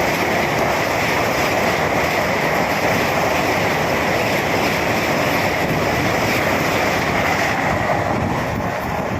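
Vande Bharat electric multiple-unit express train passing at speed: a loud, steady rush of wheel and air noise from the coaches going by, easing slightly near the end.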